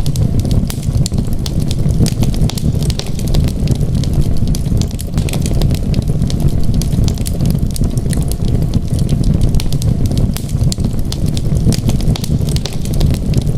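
Wood fire in a fireplace crackling: many small, sharp pops and snaps over a steady low rumble of flame.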